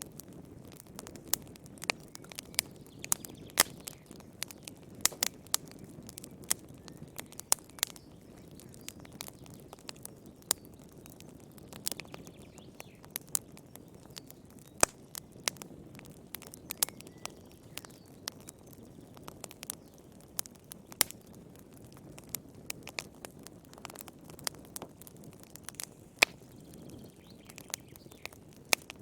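Wood fire burning in a fireplace: irregular sharp crackles and pops from the burning logs over a soft, low rush of flame.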